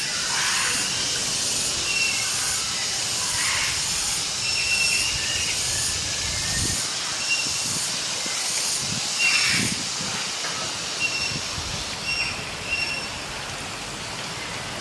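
Tropical bird-park ambience: a dense, high hiss that pulses evenly, typical of insects such as cicadas, with short repeated bird whistles over it and a few low thumps in the middle.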